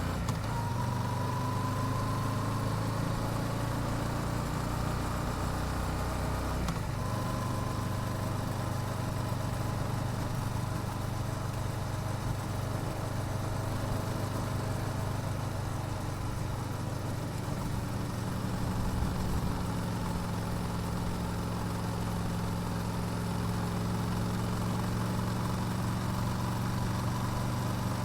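Yamaha YZF-R7's 689 cc parallel-twin engine through its stock exhaust, running at low, fairly steady revs. Its pitch rises slightly over the first few seconds and changes briefly about seven seconds in.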